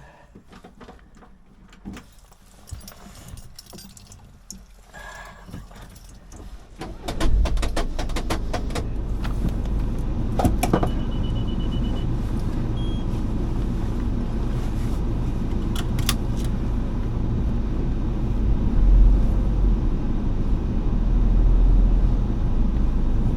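Scattered clicks and a jangle of keys, then a car engine starts about seven seconds in and runs steadily with a low rumble. A short run of quick high beeps comes a few seconds after the start.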